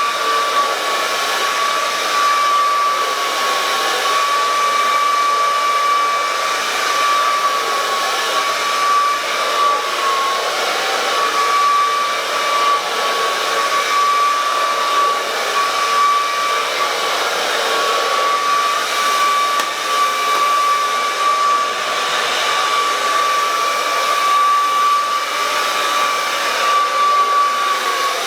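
Hand-held hair dryer running steadily, a constant rush of air with a steady high whine from its motor.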